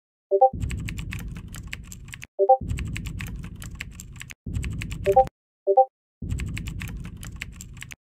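Computer keyboard typing in four quick bursts of key clicks over a low rumble. Short pitched blips sound between the bursts.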